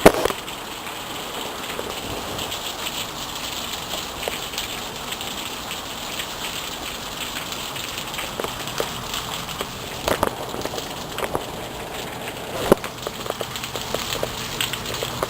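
Steady rain pattering, with louder individual drops hitting now and then, the sharpest a little after ten seconds in and near thirteen seconds in.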